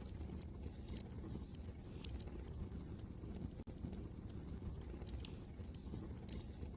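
Wood fire crackling with irregular sharp pops over a steady low rumble of wind.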